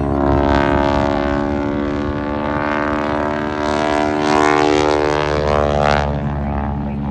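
An aircraft flying past at an air show: a steady pitched engine drone that swells, loudest about four seconds in, and loses its high end sharply about six seconds in.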